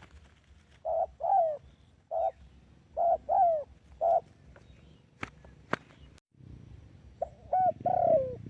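Spotted dove cooing: three phrases of low, throaty coos, each a short note, a longer note that slides down, then a short note. Two sharp clicks sound between the second and third phrases, and a low rumble comes in under the last phrase.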